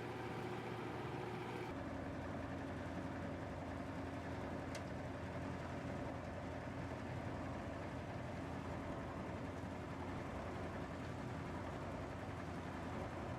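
Plastic film washing line machinery running steadily, a continuous industrial drone with motor hum. The hum shifts to a different mix of tones about two seconds in.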